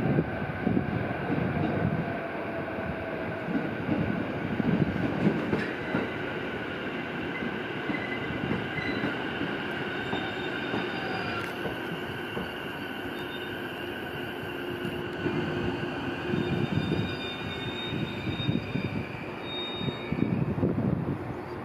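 JR East E233-7000 series electric train rolling slowly over curved track and points, its wheels squealing with several steady high tones over a low rumble that swells and fades unevenly.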